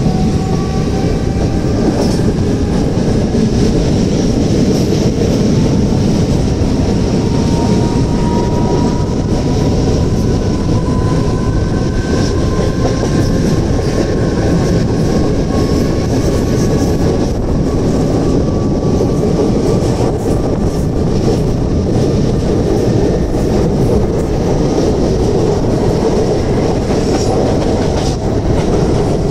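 Mumbai suburban electric local train running at speed, heard from its open doorway: a steady rumble of wheels on rails with scattered clicks and a faint whine that slowly drifts in pitch.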